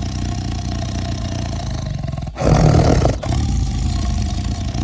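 Lion roaring: a deep, continuous rumble that swells louder about halfway through.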